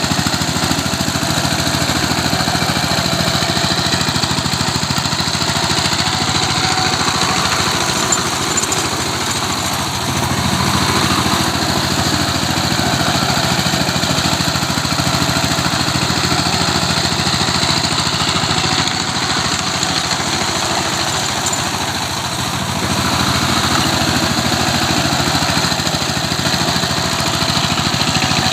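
Tractor engine running steadily as it works a wet field into mud. It eases off slightly about ten seconds in and again a little past twenty seconds.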